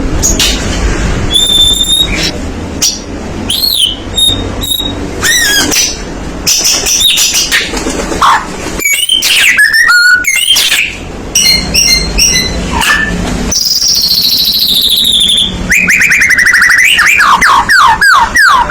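White-rumped shama singing a long, varied song of clear whistles, rising and falling glides and quick repeated notes, ending in a fast run of falling notes.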